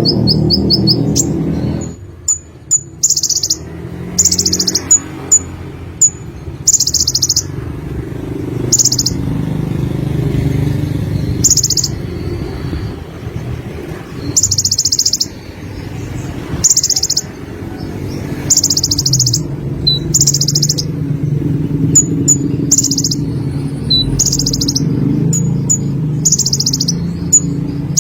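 Sunbird singing: short, high, rapidly trilled phrases repeated every second or two, with quick sharp high chips in between, over a steady low background hum.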